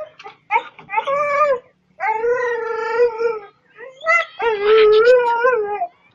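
A dog howling in three drawn-out calls, the first short and the last two about a second and a half each.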